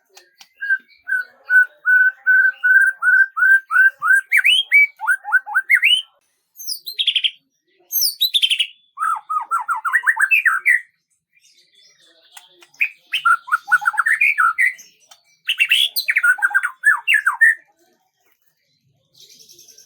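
A songbird singing: it opens with a run of a dozen or so quick notes all at one pitch, then breaks into sweeping notes, and follows with several more phrases of rising and falling notes separated by short pauses.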